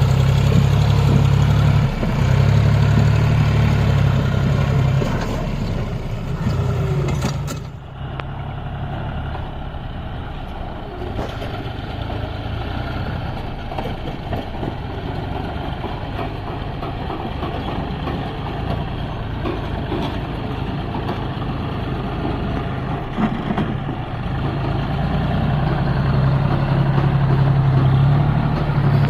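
Heavy diesel engine running loudly with a steady low drone. The level drops sharply about 8 seconds in, then the sound continues more quietly and rougher, building up again near the end.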